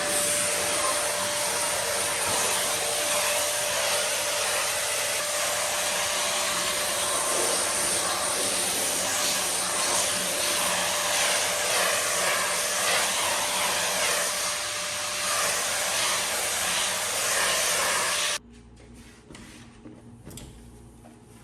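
Vacuum cleaner running steadily with a constant whine, cutting off abruptly near the end; a few faint knocks follow.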